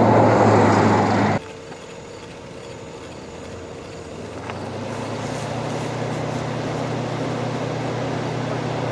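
Strong wind rushing over the microphone, cutting off abruptly about a second and a half in. A quieter steady low hum of a vehicle engine follows and grows louder from about halfway.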